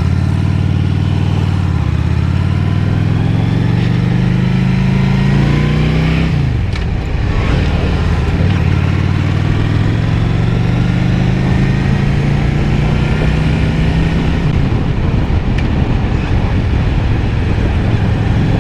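Honda Shadow 750 V-twin motorcycle engine pulling under acceleration, its pitch climbing for about six seconds and then dropping sharply, then climbing again and dropping near the end, as when shifting up through the gears. Steady wind rushes over the helmet microphone throughout.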